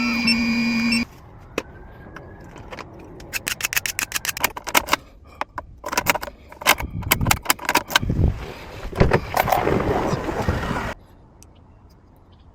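A steady pitched tone cuts off about a second in. Then comes a run of quick clicks and rattles from a car key and its plastic key shell being handled, stopping about a second and a half before the end.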